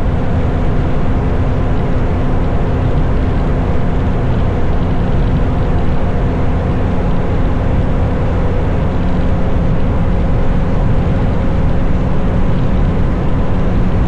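BMW motorcycle cruising at a steady speed: a constant engine drone under heavy rushing wind noise.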